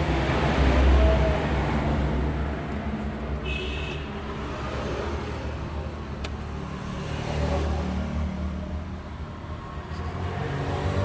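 Tata Super Ace's diesel engine running, its level swelling and easing a little.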